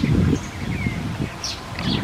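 A few short, high bird chirps, one a brief sliding note near the middle and two more near the end, over a loud, uneven low rustling rumble.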